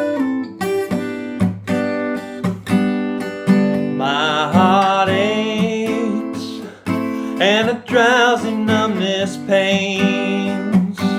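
Acoustic guitar strummed and picked, joined about four seconds in by a voice singing long, wavering notes in two or three phrases.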